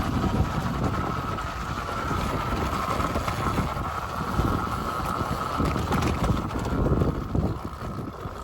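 Wind buffeting the microphone on a moving Arctic Leopard XF electric pit bike, over a steady high whine from the bike's electric drivetrain.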